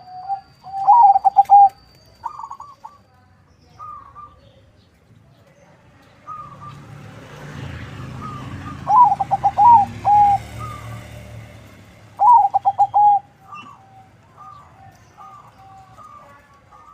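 Zebra dove (perkutut), a crossbred local and Bangkok-line bird, singing its rhythmic cooing song in repeated phrases, with the loudest phrases near the start, in the middle and about three quarters of the way through. A rushing noise swells and fades in the middle.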